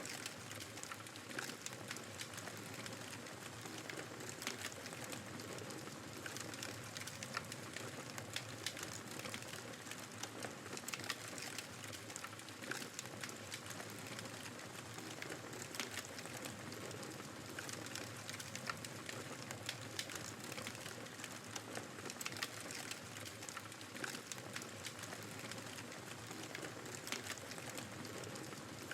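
Wood fire crackling with frequent sharp pops over a steady rush of blizzard wind and snow.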